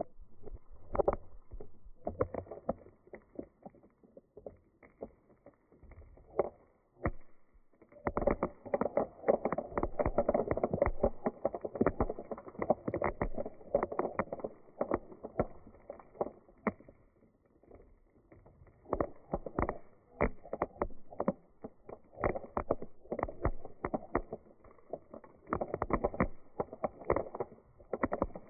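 Dried beans rolling and rattling, a dense patter of small clicks that swells and fades in waves.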